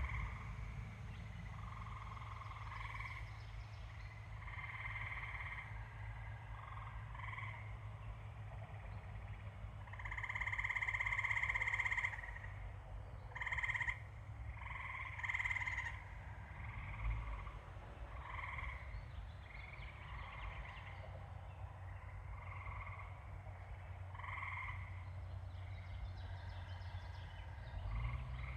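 Frogs calling in a chorus: short trilled calls repeated every second or two, the longest and loudest about a third of the way in, over a steady low rumble.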